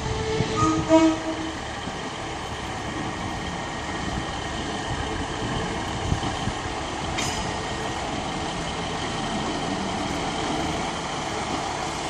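Diesel train running at a station, a steady rumble throughout, with a short two-tone horn, a higher note then a lower one, in the first second or so.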